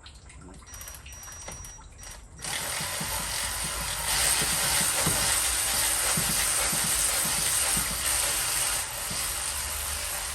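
Socket ratchet clicking fast and steadily as a water pump bolt is wound out, starting suddenly a couple of seconds in.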